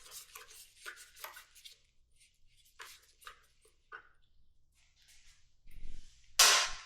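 Scattered light clicks and scrapes of hand tools and metal parts being handled during motorcycle disassembly, with a louder thump near the end.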